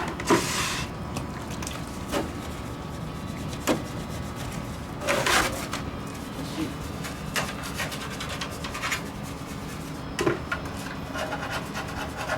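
A soft paint brush scrubbing alkaline cleaner into an air conditioner's parts, in irregular rubbing strokes. Two longer hissy bursts stand out, one just after the start and one about five seconds in.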